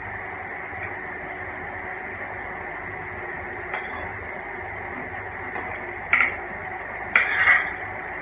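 A few sharp clinks of a plate and cutlery, loudest in a cluster near the end, over a steady background hum.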